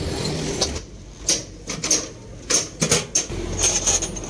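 Several irregular sharp knocks and clicks, like hard objects being handled or tapped, over a low hum that drops away about a second in and comes back near the end.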